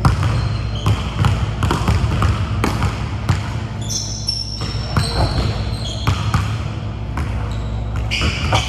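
Basketballs bouncing on a gym floor, many irregular dribbles, with short high-pitched squeaks now and then.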